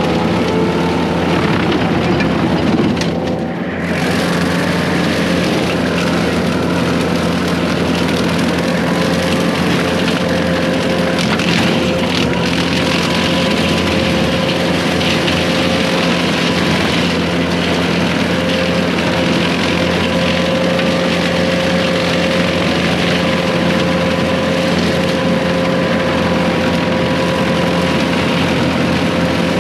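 Case 140 excavator's diesel engine and hydraulic brush cutter running steadily, a steady whine over the engine noise, with a brief dip about three and a half seconds in.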